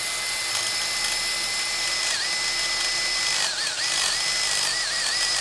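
Power drill with a number 30 bit drilling out a rivet on the muffler's rivet band: a steady high motor whine that dips briefly in pitch about two seconds in and several times near the end, then stops.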